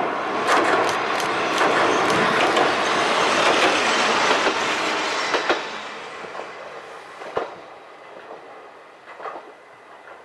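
A Kominato Railway diesel railcar crosses a steel girder bridge, its wheels rumbling and clicking over the rail joints. The sound drops away sharply about halfway through, leaving a few faint clicks as the train moves off.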